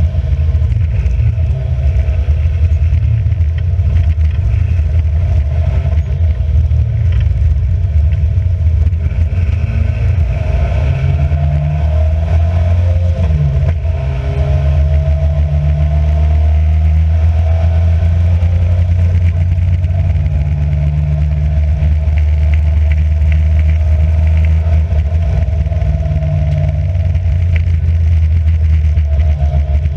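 A race car's engine under racing load. It runs loud and fairly steady, and about halfway through the revs drop and climb again as the car brakes and shifts through a corner.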